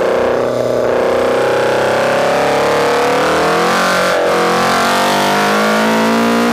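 Caterham R500's engine under load on track, its pitch easing slightly then climbing hard, with a brief gear change about four seconds in and another right at the end. A steady hiss of wind and spray runs under it.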